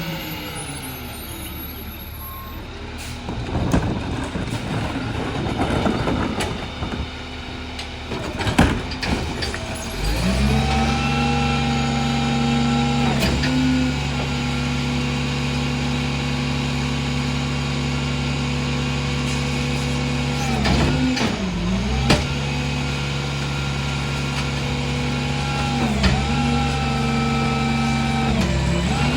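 Heil Formula 4000 rear-loader garbage truck, its Freightliner diesel engine settling down, with a few seconds of knocks and clatter. About ten seconds in, the engine revs up and holds a steady high idle to drive the hydraulic packer, dipping briefly a few times as the packing cycle works.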